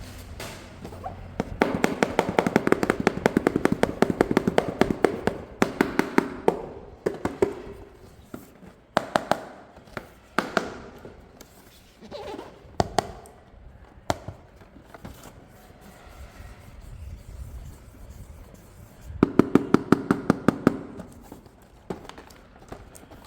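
Rapid plastic clicking, about ten clicks a second, in bursts lasting a second or a few seconds, with scattered single taps and knocks between. Sounds like a plastic RC toy and its parts being handled.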